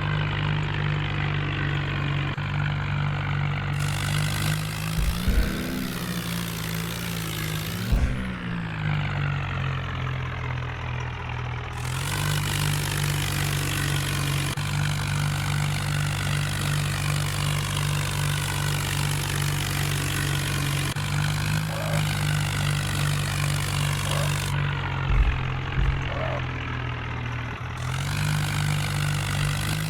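Swaraj diesel tractor engine running steadily, revving up briefly twice early on, with a few short thumps.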